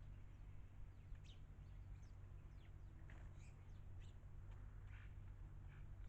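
Garden birds chirping faintly: scattered short, high notes that mostly slide downward, several a second at times. A low, steady hum runs underneath.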